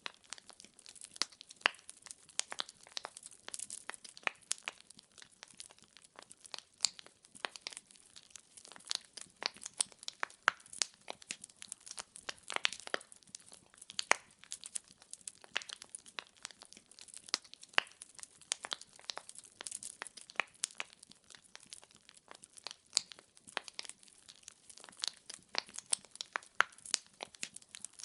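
Firewood burning in a fireplace, crackling steadily with many small, irregular pops and snaps, several a second.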